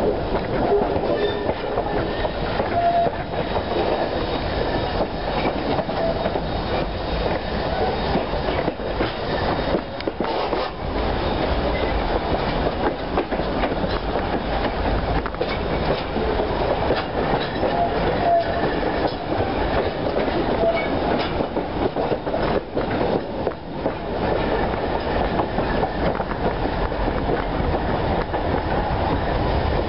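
Train carriage riding behind the steam locomotive C17 No. 720: wheels clicking over the rail joints and the carriage rattling, a steady running noise with frequent short knocks.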